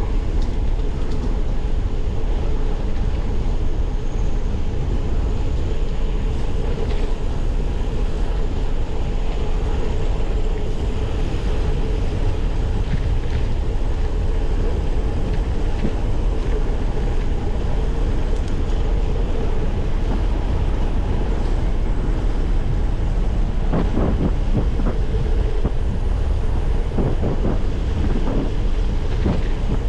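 Steady wind rushing over the microphone of a camera carried on a moving bicycle, with a faint steady hum under it and a few brief knocks about three-quarters of the way through.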